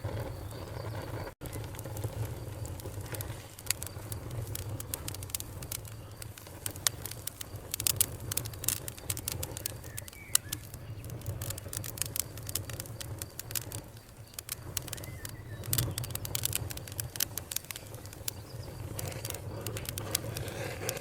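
Fire crackling: many irregular sharp pops and snaps over a steady low rumble, with a very brief dropout about a second and a half in.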